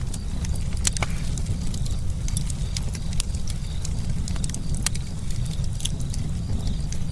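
Campfire crackling: irregular sharp pops and snaps from burning wood, with the loudest ones about a second in and near five seconds, over a steady low rumble.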